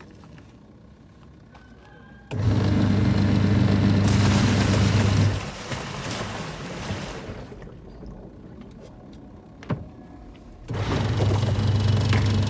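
Washing machine's newly replaced motor switching on twice in bursts of about three seconds, each with a strong steady electric hum. After the first burst a rushing noise fades away over about two seconds, and a single click comes a little before the second burst.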